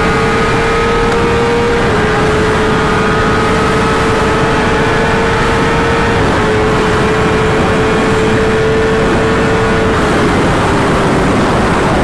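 Sport bike engine pulling hard at full throttle, its note creeping up slowly and then dropping a step with each upshift, three times. Heavy wind rush on the helmet microphone runs under it.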